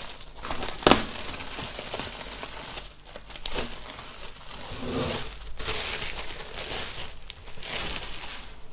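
Packaging being unwrapped by hand: continuous crinkling and rustling of wrapping, with a couple of sharper cracks about a second in and again near the middle.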